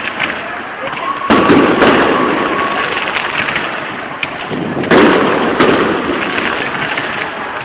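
Fireworks display: two loud bursts, about a second in and about five seconds in, each fading out over several seconds, with scattered crackling between them.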